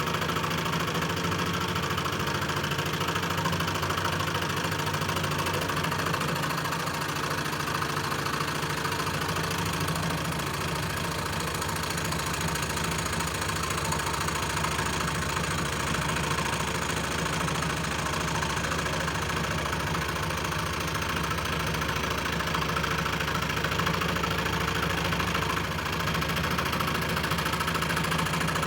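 Scroll saw running steadily, its motor humming under the rapid buzz of the reciprocating blade.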